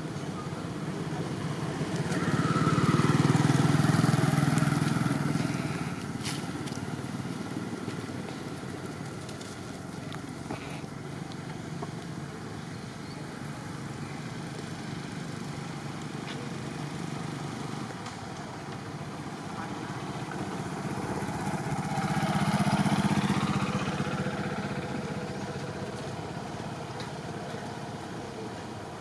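Motor vehicles passing by on a road: two swell up and fade away, one about four seconds in and another near twenty-three seconds, over a steady traffic background.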